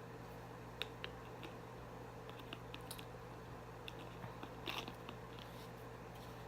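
Faint close-up eating sounds: chewing with scattered small clicks and crunches, a little cluster of them about three-quarters of the way through, over a steady low hum.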